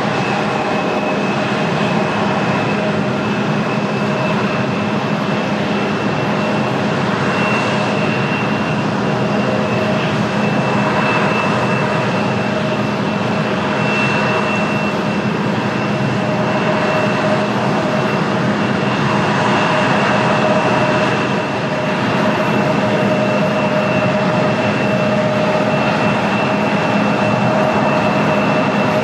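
Jet airliner engines running at a steady level: a continuous loud roar with a constant high whine and lower hum, neither rising nor falling.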